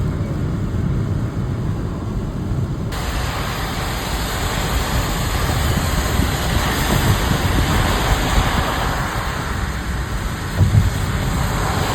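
Low steady rumble of a car, then about three seconds in a sudden, even hiss of heavy rain comes in and keeps on.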